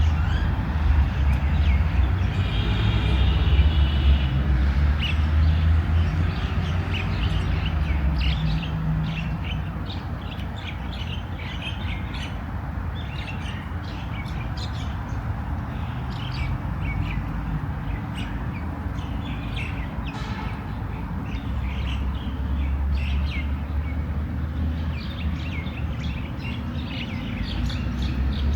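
Small birds chirping in many short, quick calls, over a low rumble that is heaviest in the first third and again near the end.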